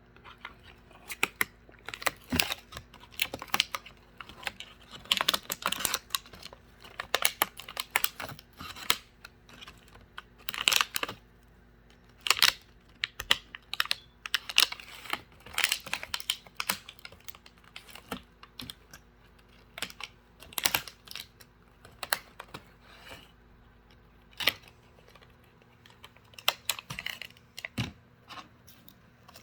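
Cockatoo busy at a cardboard box, chewing and picking at the cardboard: irregular crisp clicks and crunches in quick clusters with short gaps.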